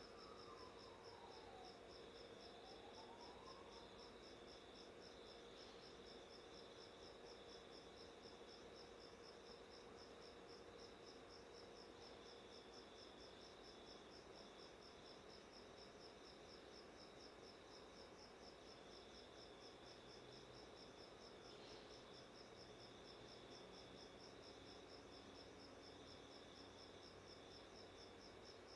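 Faint, steady, rapidly pulsing high-pitched trill, like chirping insects, with a second broken chirring just beneath it. In the first few seconds a soft whistle glides down and back up.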